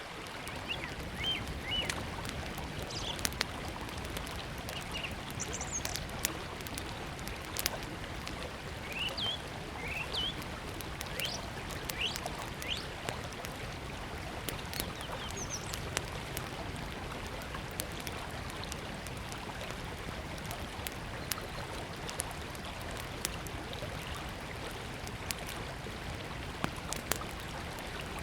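River water flowing steadily, with a small wood fire crackling in sharp scattered pops over it. Short high bird chirps come now and then in the first half.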